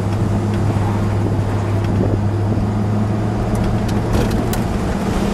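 1957 Dodge Coronet convertible's V8 running steadily at a low cruising speed, a steady low hum, heard from inside the open-top car together with wind and road noise.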